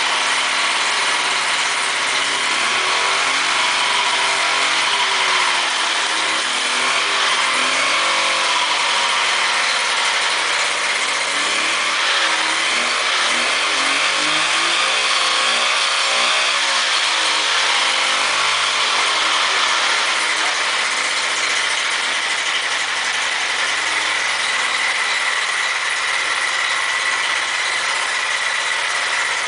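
DKW two-stroke engine running after 34 years of disuse, its speed rising and falling through the middle, then settling to a steadier run near the end.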